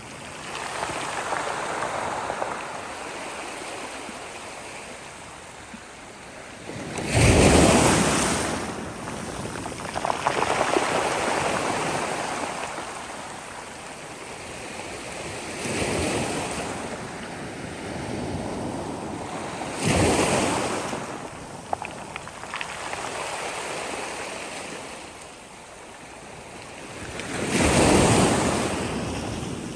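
Sea waves breaking on a shore: a continuous wash of surf swelling into four louder breakers. The strongest comes about a quarter of the way in, and another comes near the end.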